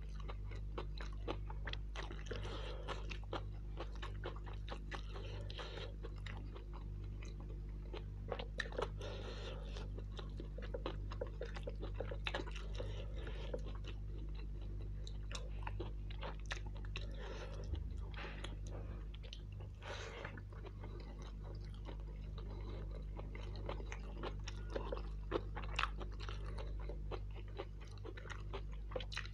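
Mouth-eating sounds of mutton kofta biryani being chewed: wet smacking with many sharp irregular clicks and light crunches, over a steady low hum.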